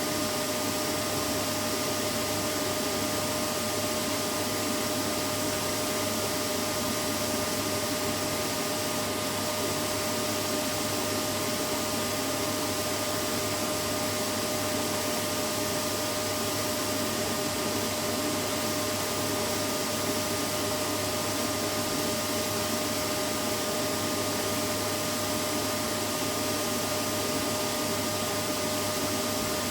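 Vacuum cleaner running steadily, a constant whooshing motor noise with a steady hum, used as white noise for lulling a baby to sleep.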